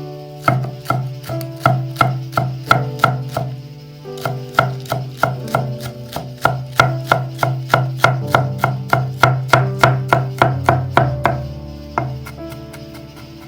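Kitchen knife chopping food on a cutting board in a steady, quick rhythm of about three strokes a second, stopping about eleven seconds in, over background music.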